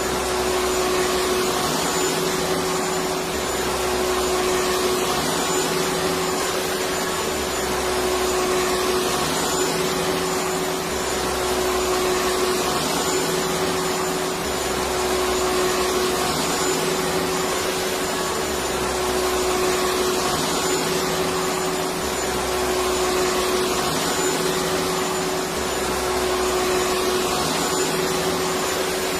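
Electric vacuum cleaner running steadily: a constant rushing hiss with a steady whine in it, and a low rumble that swells and drops every three or four seconds.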